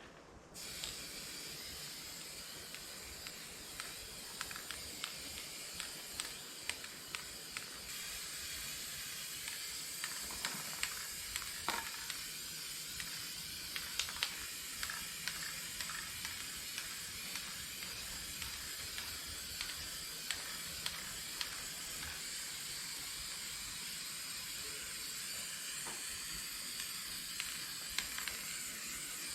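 Spray paint hissing steadily from a can held with a snap-on trigger grip, with small scattered ticks and clicks, as paint is sprayed onto cast-iron tractor front weights.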